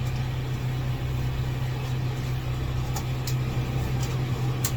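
Steady low mechanical hum of running equipment, such as a generator or air conditioner, with a few light clicks about three seconds in and near the end.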